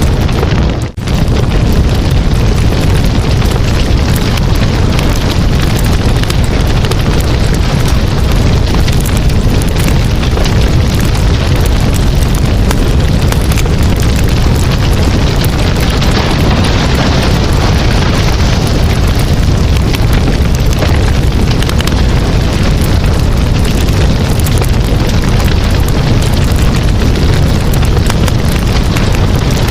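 Campfire burning, with dense crackling over a loud, steady rushing rumble. The sound breaks off for an instant about a second in.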